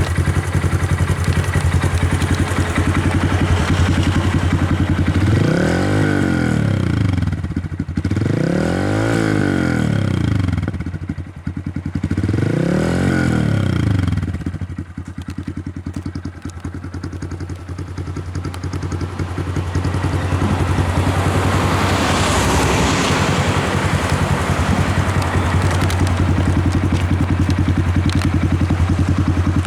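Honda Grom's single-cylinder engine running through an aftermarket exhaust: a steady idle broken by three quick throttle blips in the first half, each revving up and dropping straight back to idle, then idling on, a little quieter for a few seconds near the middle.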